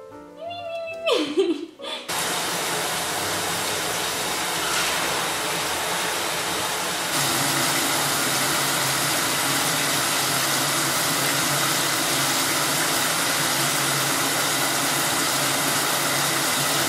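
A loud, steady rushing noise starts about two seconds in. It steps up louder about seven seconds in.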